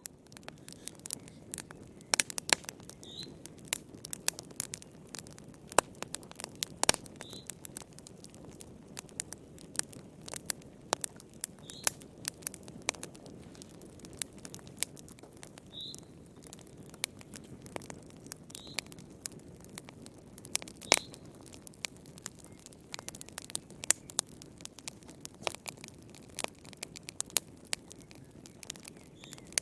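Wood fire in a fireplace crackling, with irregular sharp pops and snaps, some loud, over a steady low rush of burning.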